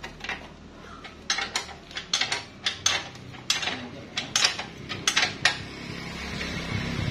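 Metal tools and motorcycle parts clinking and knocking in irregular sharp strokes during work on a rear wheel hub, then a steady low hum comes in near the end.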